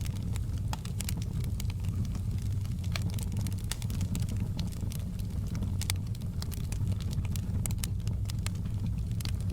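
Fireplace wood fire crackling, with irregular sharp pops and snaps over a steady low rumble of the flames.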